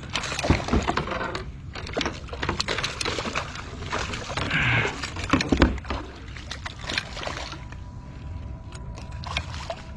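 Water splashing and sloshing as a hooked rainbow trout is played and pulled in, with scattered knocks and rustles.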